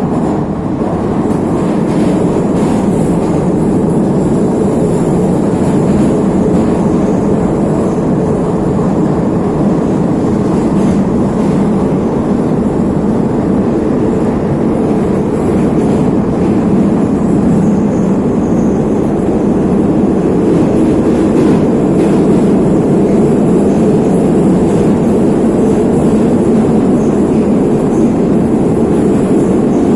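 Neva metro train heard from inside the car while running at speed through a tunnel: a loud, steady rumble of wheels on rail and running gear. It grows a little louder over the first few seconds, then holds level.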